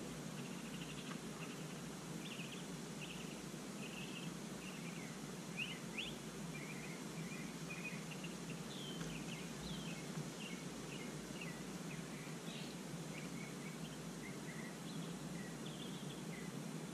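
Small birds chirping in a long run of short, varied high notes over a steady low background noise.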